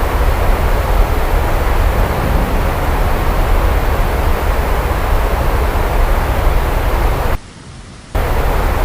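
Steady heavy rainfall, a dense hiss of rain over a deep low rumble. Near the end it cuts out abruptly for under a second, then resumes.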